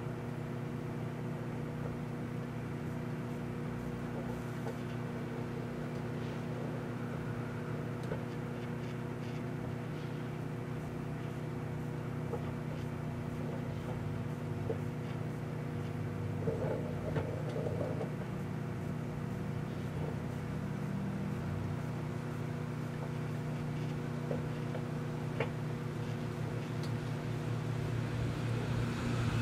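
Microwave oven running, a steady electrical hum with a few faint clicks.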